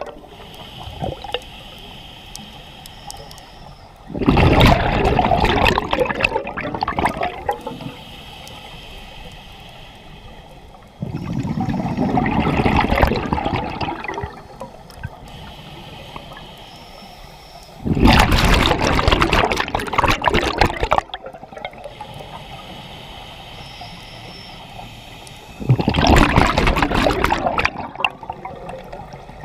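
Scuba regulator breathing heard underwater: four long exhalations of bubbles rushing out for about three seconds each, roughly every seven seconds, with quieter hissing inhalations through the regulator between them.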